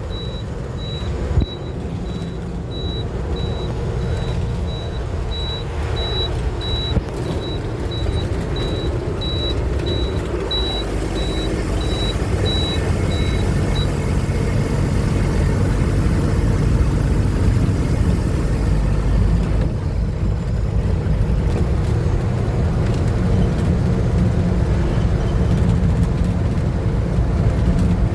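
Truck engine running under way with a steady low rumble. A high electronic beep repeats about twice a second over the first half, then stops.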